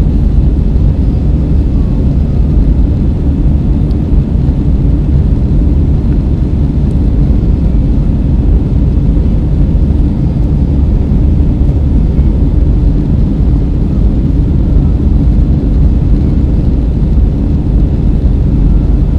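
Steady low roar of an Airbus A320's jet engines and airflow, heard inside the passenger cabin in flight. The noise is loud and even, with no change in pitch or level.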